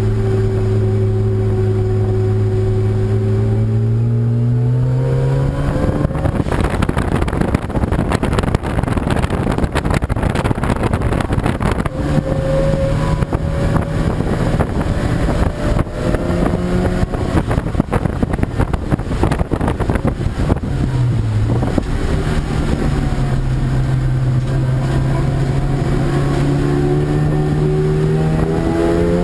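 Race car engine running hard on a circuit: the revs hold, then climb about five seconds in. A rushing noise covers the engine from about six to twelve seconds, then the revs dip around twenty-one seconds and climb steadily again near the end.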